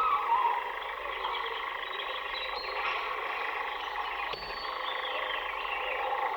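A dense chorus of many birds chirping and calling at once, short high calls and small rising and falling glides layered thickly over one another. This is recorded forest birdsong, the tape part of a piece for prepared piano and tape.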